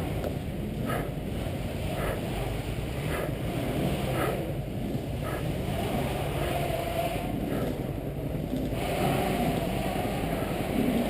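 Steady wind rumble on the microphone, with faint regular ticks higher up about once a second.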